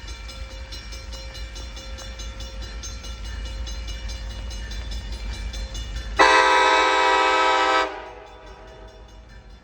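Diesel locomotive air horn sounding one blast of about a second and a half, a multi-note chord, about six seconds in, over a low steady rumble.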